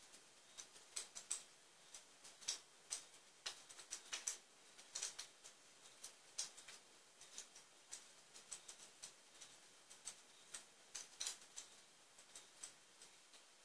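Faint, irregular fireplace crackling: sharp little clicks and pops coming a few times a second at uneven intervals, over a low hiss.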